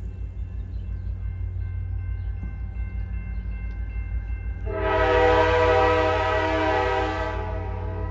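Diesel locomotive of the dinner train running with a steady low rumble. About halfway in, its air horn sounds one long blast of nearly three seconds, a chord of several tones.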